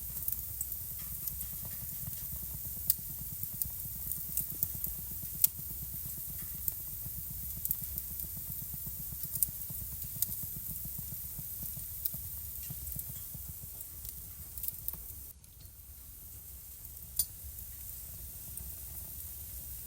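Wood fire crackling in a fireplace: a steady hiss and low rumble with sharp pops every second or so, a few of them louder. The sound dips suddenly for a moment about three-quarters of the way through, then comes back.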